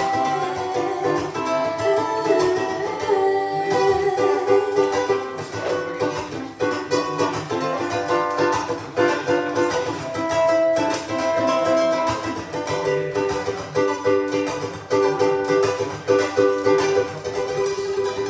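Instrumental music on a plucked string instrument, notes picked in a steady run with no singing.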